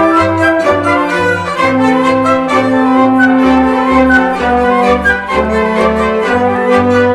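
Orchestra playing: brass and strings hold sustained chords over a bass note that pulses about twice a second.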